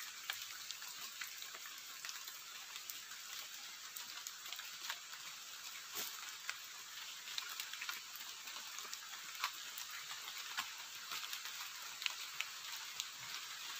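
Light rain falling on the river and the vegetation around it: a steady faint hiss dotted with many small, irregular drop ticks.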